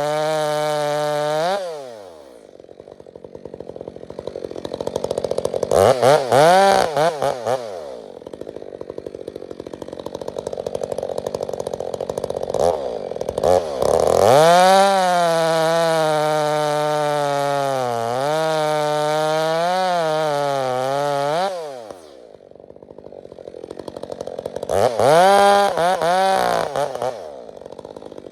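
Stihl 462C two-stroke chainsaw with an Egan Straight Shot aftermarket exhaust, running at high revs, then dropping to idle about two seconds in. It revs up several times from idle: a short burst, a long run of about seven seconds whose pitch sags and recovers, and another short burst near the end.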